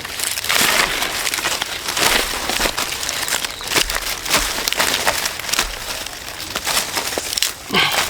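Irregular crunching and crackling, a dense run of sharp clicks, with a short pitched sound falling in pitch near the end.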